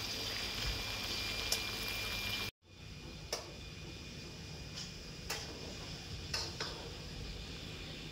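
Peanut and chilli sauce sizzling as it fries in a wok with a metal spatula. It cuts off abruptly about two and a half seconds in, leaving a quieter steady hiss with a few faint clicks.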